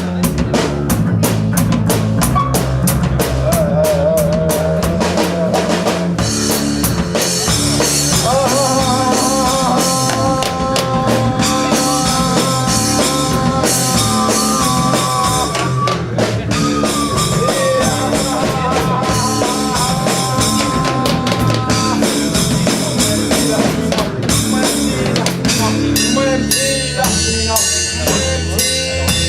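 Instrumental band music: a drum kit with bass drum and snare keeping a steady beat under a bass line, with long held pitched notes through the middle.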